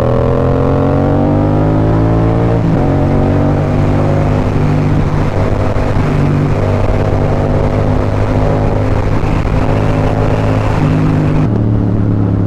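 Motorcycle engine pulling hard, rising in pitch for about three seconds, then dropping at an upshift and cruising steadily, with another shift near the end. A steady rush of wind noise runs under it.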